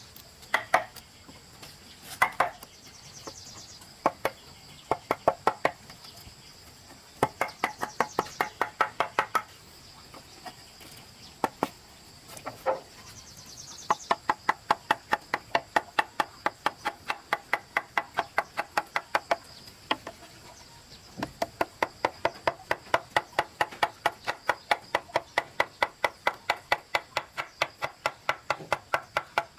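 Rapid chopping strikes in runs, about five a second, with short pauses between runs, over a steady high-pitched buzz.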